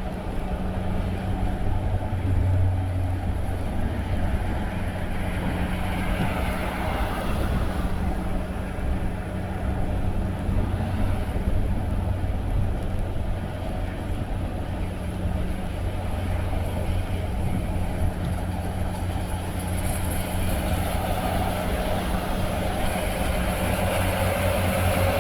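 A car driving along a road: a steady low engine hum under a constant wash of tyre and road noise.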